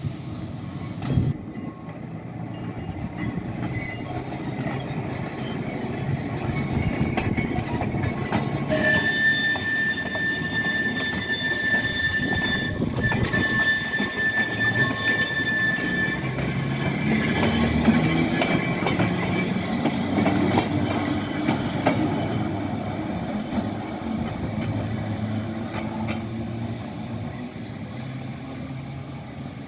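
Manx Electric Railway electric tramcar No.2 and its trailer pulling away, with the motors and wheels on the rails growing louder toward the middle and then fading. A high, steady wheel squeal rings out for about seven seconds, from near the 9-second mark, as the wheels grind on the rails.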